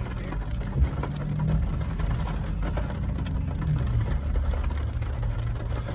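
Vehicle running at low speed, heard from inside the cabin: a steady low engine and road rumble whose pitch shifts slightly, with faint ticks and rattles.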